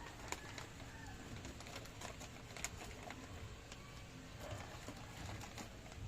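Indian ringneck parrot making faint short calls and scattered clicking sounds, with two sharper clicks about a third of a second in and a little past halfway.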